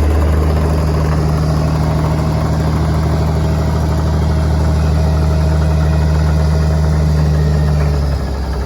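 Diesel engine of a loaded gravel dump truck running steadily at constant speed, its note dropping lower about eight seconds in.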